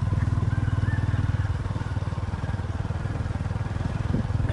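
Small motorcycle engine running steadily, with a fast, even pulse.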